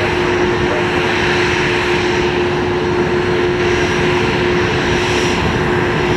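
Airliner engines running, a loud steady noise with one steady hum held through it.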